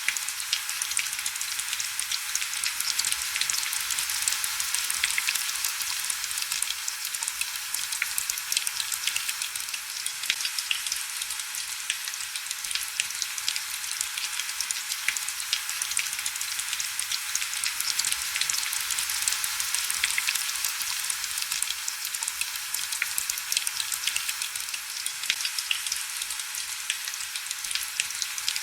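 Heavy rain falling steadily: a dense, even hiss shot through with many sharp ticks of individual drops, with no low rumble or thunder.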